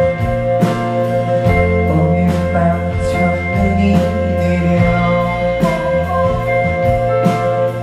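Live rock band playing a song: drum kit keeping a steady beat under a bass line and sustained guitar and keyboard chords.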